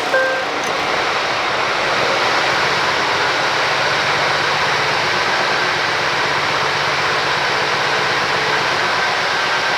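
Scania P450 truck's 13-litre straight-six diesel running steadily at idle just after a cold start.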